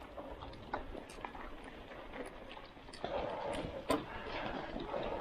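Mountain bike riding on a dirt road: scattered clicks and ticks of the bike and tyres over the ground, with a louder rough rushing noise from about three seconds in.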